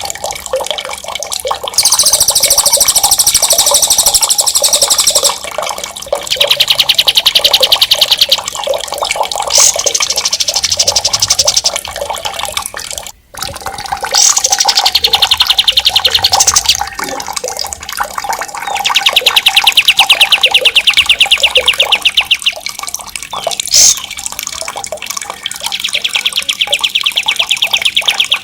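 A songbird giving long, very rapid rolling trills, several in a row, each lasting a few seconds, one with a swooping whistle, over a continuous sound of running water.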